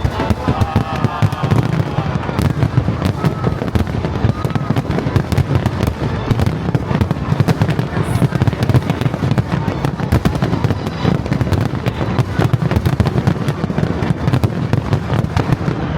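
Fireworks display: a continuous dense barrage of bangs and crackling, many bursts a second with a deep low rumble under them.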